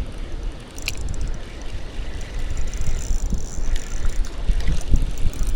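Wind buffeting the microphone, a gusting low rumble, with a sharp click about a second in and a brief high hiss around three seconds.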